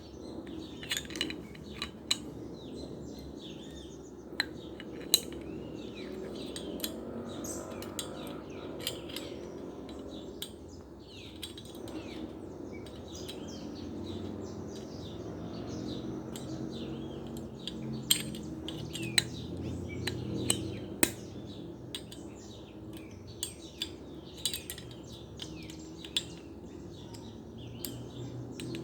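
Repeated sharp clicks and clinks of small metal parts being handled, over a steady low rumble, with high bird-like chirps throughout.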